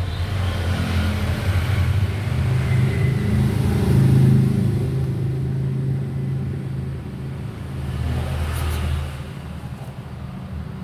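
A low, steady engine rumble, swelling about four seconds in and dropping away after about nine seconds.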